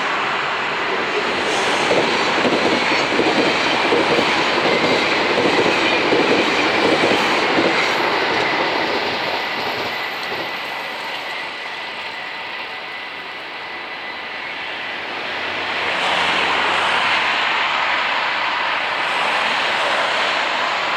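A VIRM double-deck electric train passing over the level crossing, its wheels running on the rails with clickety-clack and a thin high squeal in the first half. The noise eases in the middle and swells again about three-quarters of the way through.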